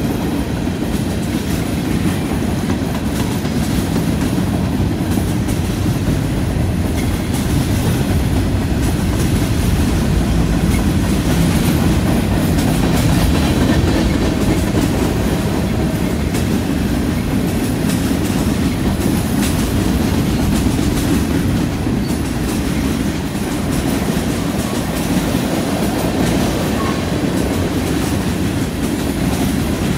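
Mixed freight cars of a CN freight train (centerbeam flatcars, covered hoppers, coil cars) rolling past close by: a steady rumble of steel wheels on rail, with occasional clicks.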